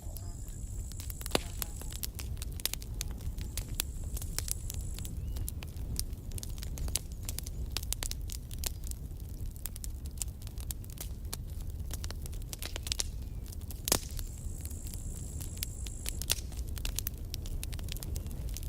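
Campfire burning: wood crackling with frequent sharp pops of varying strength over a low steady rumble of the flames, the loudest pop about two-thirds of the way through. A thin high whistle sounds three times, near the start, a little later, and again after the loudest pop.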